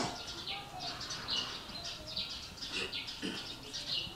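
Small birds chirping over and over in short high calls.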